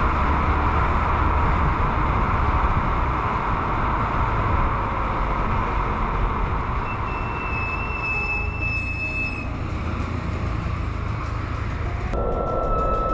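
Subaru Impreza WRX STI being driven: a steady mix of road and tyre noise with low engine rumble. The sound changes abruptly about twelve seconds in, and a thin steady whine is heard near the end.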